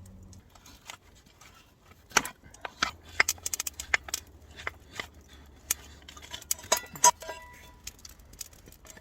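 Metal frying pan and its fitting being handled and put together: a run of sharp metal clinks and clacks, the loudest about two seconds in and about seven seconds in, one with a brief ring.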